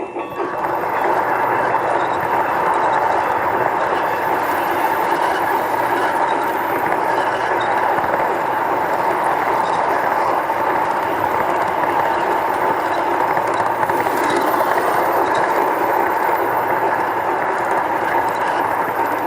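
Miniature train running steadily on its track, a constant whirring rattle with a steady tone through it, starting suddenly.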